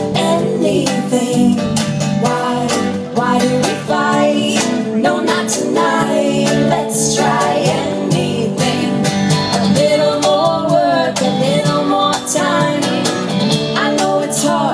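Live acoustic pop song: strummed acoustic guitars with a woman singing over them, wordless or unclear.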